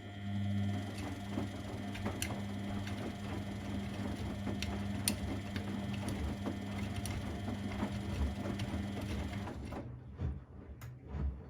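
A laundry appliance's electric motor or pump running with a steady hum and scattered clicks, cutting off suddenly about ten seconds in; a few soft knocks follow.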